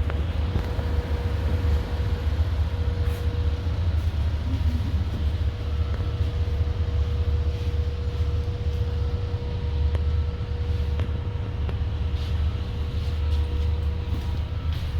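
Steady low mechanical rumble with a constant hum above it, like running industrial machinery; a few faint clicks near the end.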